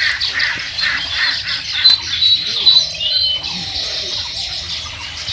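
Birds chirping and squawking: many short, high calls overlapping, with two sharper, louder calls about two seconds in.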